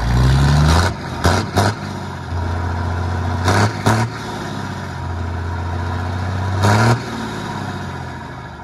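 6D16 inline six-cylinder diesel engine running, blipped several times: quick revs rise over a steady idle near the start, twice a little after one second, twice around three and a half to four seconds, and once near seven seconds.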